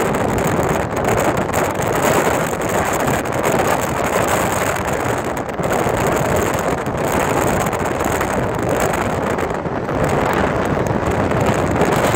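Loud, steady wind buffeting the microphone, a continuous rushing noise.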